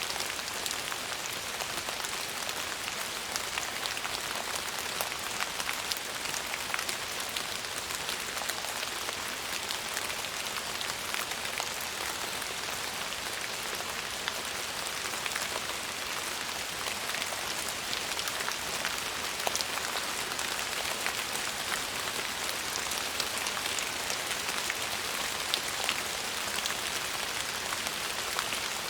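Steady rain falling on a surface, an even hiss with many small drop taps scattered through it.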